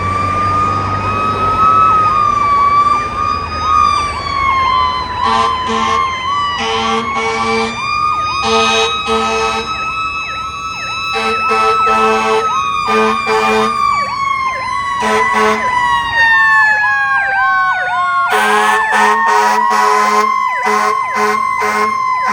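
Fire trucks' sirens sounding as they pass: one siren wails, rising and falling slowly, while another yelps rapidly. From about five seconds in, repeated short blasts of a deep horn come over them, and there is a low truck engine rumble near the start.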